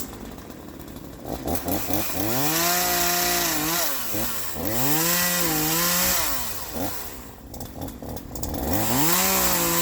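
Troy-Bilt TB4218 42 cc two-stroke chainsaw with an 18-inch bar, throttled up three times. Each time the engine rises to a high, steady speed, holds it for a second or two, then drops back toward idle. The last run-up lasts to the end.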